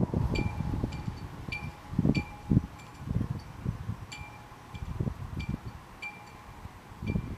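Wind chime ringing in gusty storm wind, its tubes struck about a dozen times at irregular intervals, over low wind gusts buffeting the microphone.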